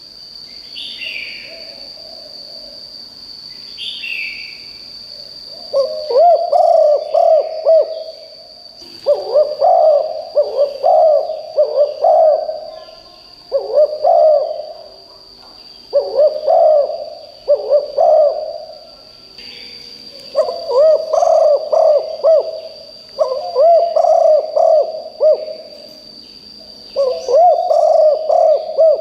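Spotted dove cooing: its multi-note cooing phrase repeated every two to three seconds from about six seconds in. Two short, falling high calls from another bird come near the start, over a steady high-pitched drone.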